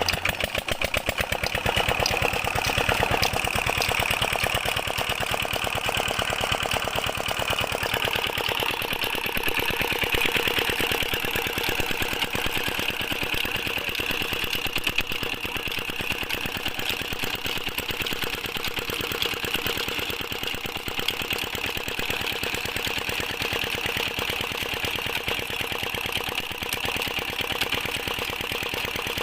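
Diesel engine of a tube-well water pump running steadily with a fast, even beat.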